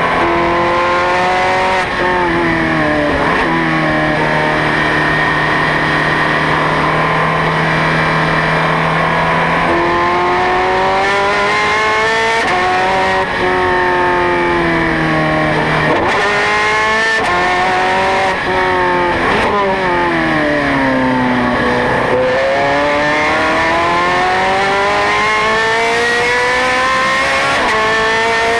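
Ferrari 430 Scuderia's V8 engine being driven hard on a race track, its pitch climbing and falling again and again as it accelerates, shifts gear and slows for corners. In the second half there is a long drop in revs followed by a long climb.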